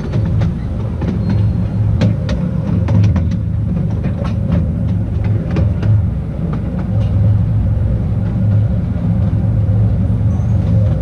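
Narrow-gauge train running along its track: a steady low rumble from the wheels on the rails, broken by many irregular sharp clicks and knocks.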